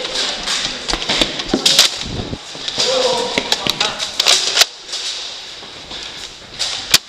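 Sharp pops and snaps of toy foam-dart blasters firing at irregular intervals, mixed with indistinct voices.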